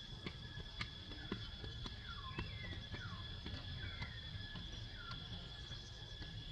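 Quiet outdoor ambience: a handful of short, falling bird chirps, roughly one a second, over a steady high whine and a low rumble, with a few faint clicks.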